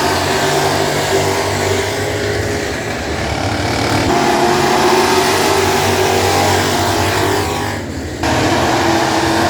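Several dirt-track classic-class race cars running hard around the oval at once, their engines overlapping and rising and falling in pitch as they go past. The sound is briefly muffled a little before eight seconds in.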